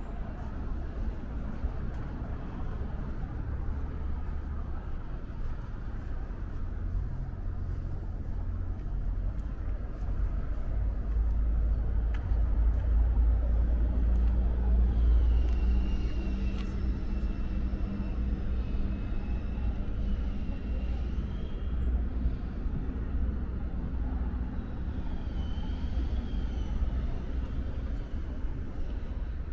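Low, steady rumble of motor traffic, swelling as a vehicle passes and loudest about halfway through, with a faint high whine over it toward the end.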